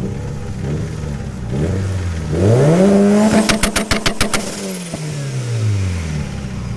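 Car engine revved hard while standing: the pitch climbs quickly, is held high for about two seconds with a quick string of sharp pops, then falls back down to idle.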